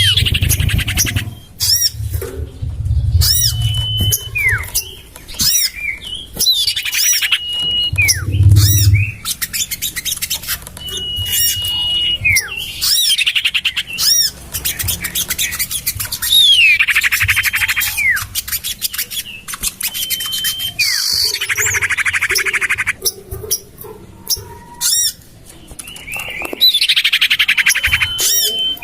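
Common iora (sirtu/cipoh) calls played as a bird-lure recording: short level whistles, falling slurred notes and bouts of fast harsh rattling trills, repeated over and over. A low rumble sits under the calls in the first few seconds and again about eight seconds in.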